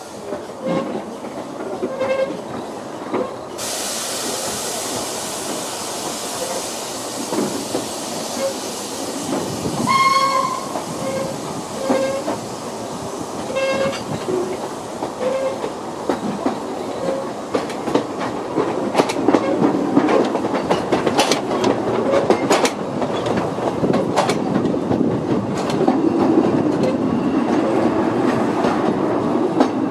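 Two-foot-gauge narrow-gauge train heard from aboard a coach as it gets under way. A hiss runs for several seconds early on, and a short high-pitched tone comes about ten seconds in. The wheels click over the rail joints, louder and more often in the second half.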